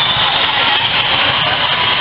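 Steady, loud din of a crowd of many voices blending together, with no single voice or sharp sound standing out.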